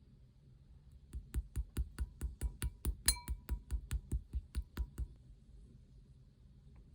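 Rapid, evenly spaced hard taps on a slime container, about five a second for four seconds, one of them ringing briefly like glass.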